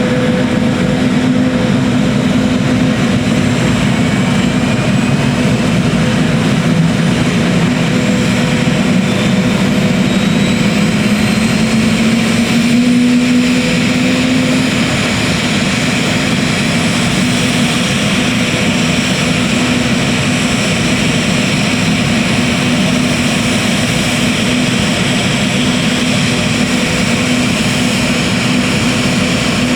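Helicopter turbine engine and rotor running loudly and steadily, with a whine that rises slightly in pitch about halfway through.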